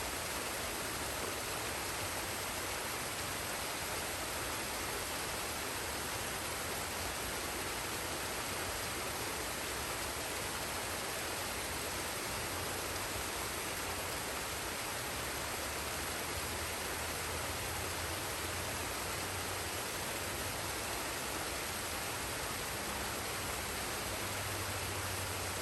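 Forest waterfall and stream: a steady, unbroken rush of falling water.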